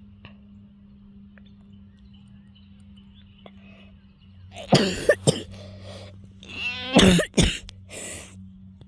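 A person coughing several times and clearing their throat with a rasping sound, in short loud bursts starting about halfway through.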